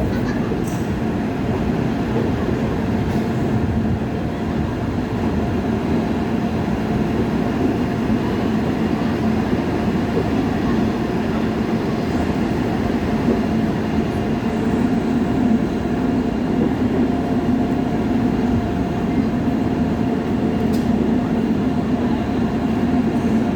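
Train running steadily: a continuous rumble with a faint, steady hum over it.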